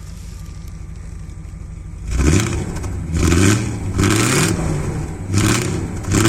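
Audi V8 engine idling, then revved in four quick throttle blips about a second apart, starting about two seconds in. Each blip rises and falls in pitch, and another begins right at the end.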